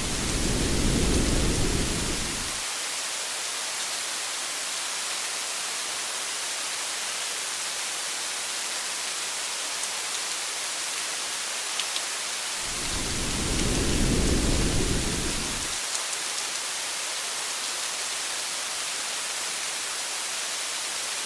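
Steady hiss of heavy rain with a few faint drop ticks, and two low rumbles of thunder: one swells at the start and one about 13 seconds in, each lasting two to three seconds.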